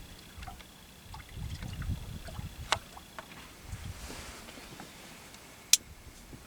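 Low rumble of wind and water lapping around a boat on a river, with scattered light ticks and one sharp click near the end.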